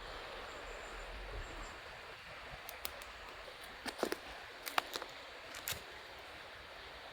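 Campfire burning with a steady hiss and a handful of sharp wood pops and cracks between about three and six seconds in.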